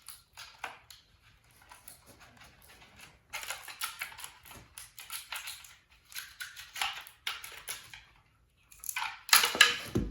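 Plastic and cardboard packaging rustling and crinkling in irregular bursts as parts are handled out of a box, loudest near the end.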